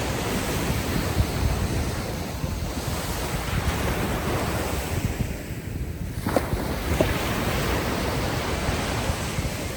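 Ocean waves washing onto a beach, a steady rush of surf with wind, easing briefly a little past the middle before swelling again.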